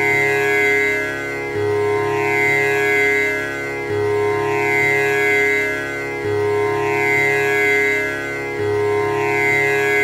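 Tanpura drone: its strings plucked one after another in a steady repeating cycle, the cycle starting over about every two and a half seconds, the notes ringing on and overlapping in a continuous hum full of overtones.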